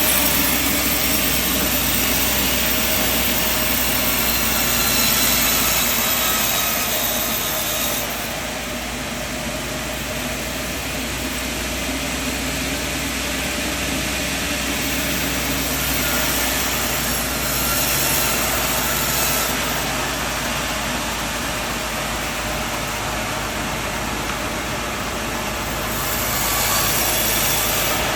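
Sawmill machinery running steadily: a constant low engine-like hum under a broad hiss. The higher hiss drops about a third of the way in, then swells again twice.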